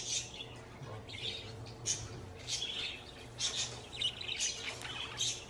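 A parrot giving short, scattered chirps and squawks at irregular intervals, over a faint steady hum.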